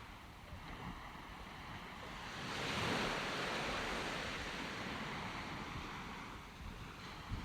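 Sea waves breaking on the shore: the surf swells to a wash about two and a half seconds in and slowly eases off, with wind on the microphone.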